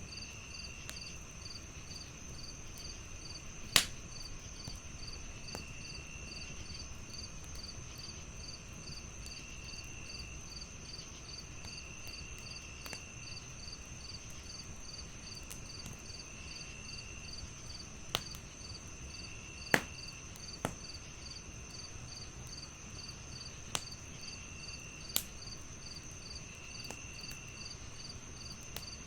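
Crickets chirping in a steady, rapid pulse over a continuous high insect drone, with a lower trill that comes and goes. Sharp pops from a crackling wood fire break in now and then, the loudest about four seconds in and near twenty seconds.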